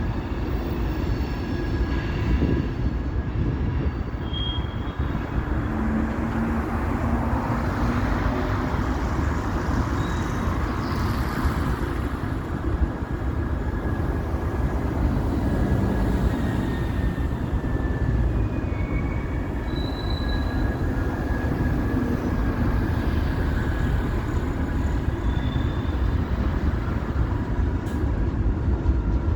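Train running on rails with a steady rumble, and a few brief high squeals now and then.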